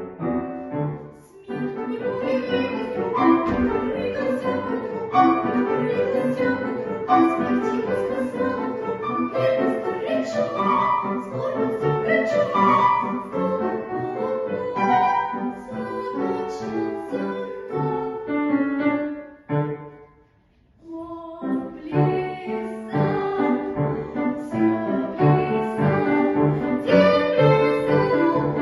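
Classical-style solo singing with vibrato, accompanied by piano. The music breaks off briefly about two-thirds of the way through, then the piano and voice resume.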